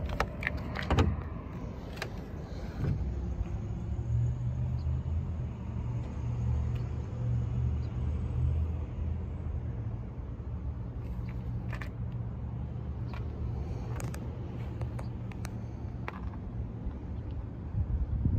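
Mercedes-Benz 380SL's V8 engine idling steadily, a low even hum, with a few sharp clicks in the first few seconds and a loud knock right at the end.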